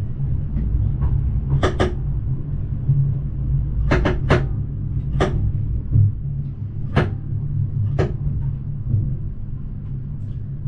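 Bernese Oberland Railway narrow-gauge electric train running slowly with a steady low rumble, and sharp clicks from the wheels passing over the track at uneven intervals, several times.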